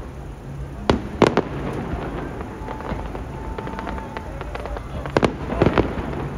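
Distant fireworks display: sharp shell bursts about a second in and again near the end, with lighter crackling between them.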